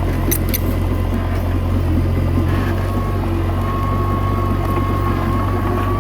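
Komatsu D21A mini bulldozer's diesel engine running steadily under work, with a thin steady whine over the low drone and a few sharp metallic clicks near the start.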